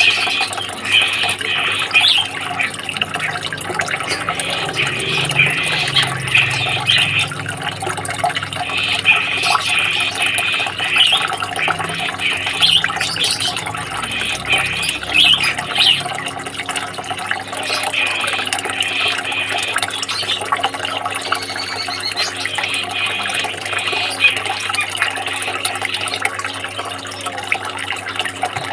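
Continuous trickling, splashing water, full of small splashes and gurgles.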